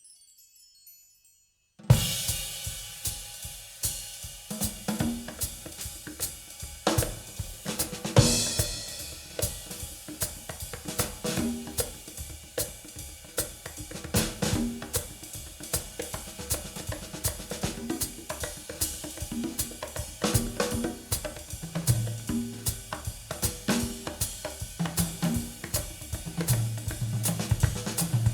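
A drum-kit-led music track played back through Elfton Vegas II four-way loudspeakers and picked up by room microphones. It starts suddenly about two seconds in, with snare, hi-hat, cymbals and kick drum in a steady beat. Held low bass notes come in over the last several seconds.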